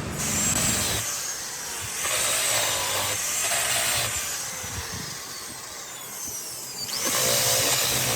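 A handheld power tool run in three bursts, working against something, with a high whine that slides slowly down in pitch.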